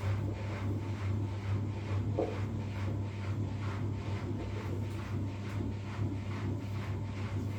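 Front-loading washing machine running mid-cycle: a steady low hum with an even swish of tumbling laundry and water about twice a second.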